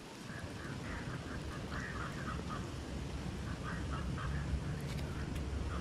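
Bird calls: short calls repeated in quick, irregular runs, over a low rumble.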